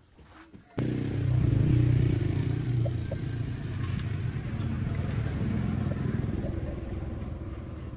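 Tractor engine running with a steady low rumble, cutting in abruptly about a second in, loudest just after it starts and easing slightly after.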